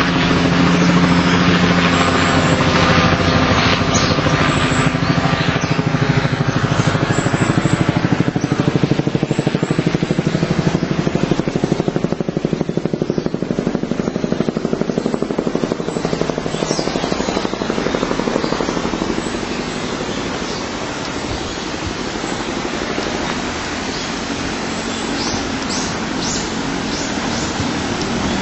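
Steady rush of falling water from a waterfall. A low droning hum under it fades out over the first several seconds.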